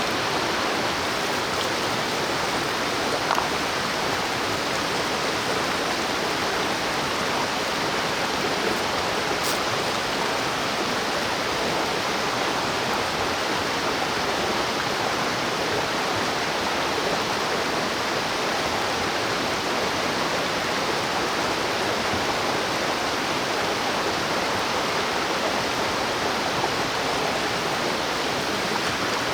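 Mountain stream water rushing steadily, with a faint tick or two.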